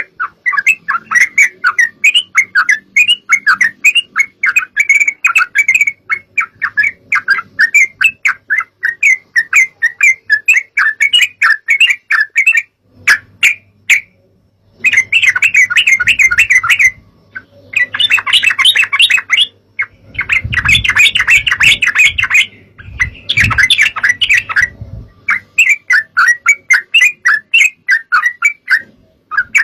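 Yellow-vented bulbul (trucukan) calling: fast runs of chattering, bubbly notes at much the same pitch, broken by a pause of about two seconds near the middle and shorter pauses later. A faint low hum sits under the middle part.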